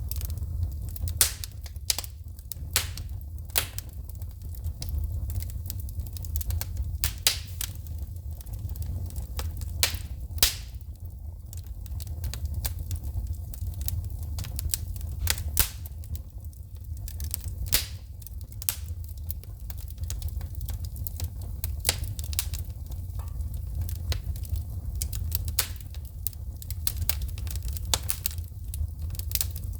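Wood fire crackling and popping in a fireplace: irregular sharp snaps of burning logs and sparks over a steady low rumble of the flames.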